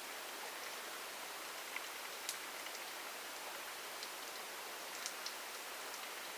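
Steady rain: an even hiss with scattered single drops ticking distinctly on a surface now and then.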